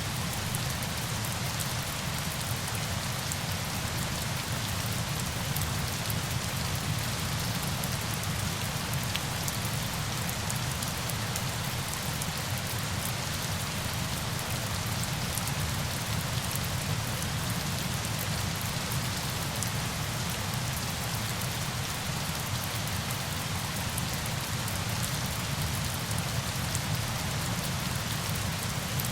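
Steady rain: an even hiss of falling water, with fine drop ticks in the highs and a low rumble beneath, unchanging throughout.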